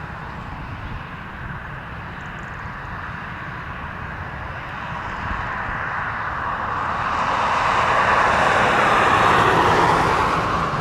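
Jet airliner passing close by, its engine noise building over several seconds to a peak near the end, then starting to ease.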